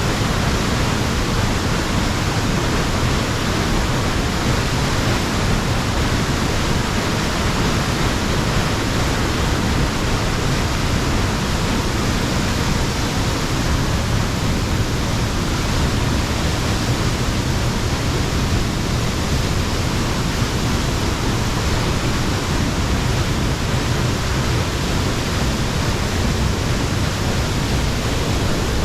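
Falling water rushing loudly and steadily, an unbroken even noise.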